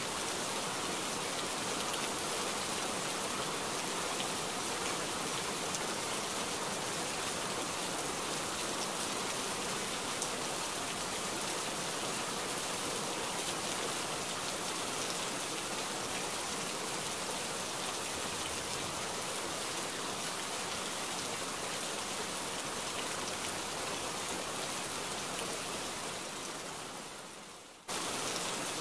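A jet of water splashing steadily onto plastic toy vehicles and wet sand: a continuous spattering hiss. It fades down shortly before the end and then cuts straight back in.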